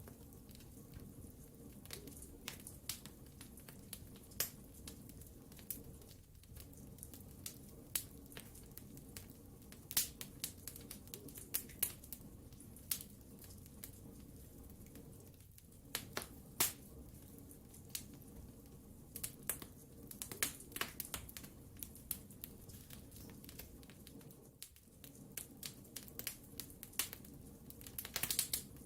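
Wood fire crackling in a fireplace: irregular sharp pops and snaps, some loud and some in quick clusters, over a steady low rumble of burning.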